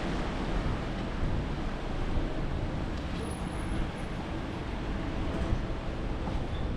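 Steady rushing noise of strong storm wind, with a constant low rumble and no single event standing out.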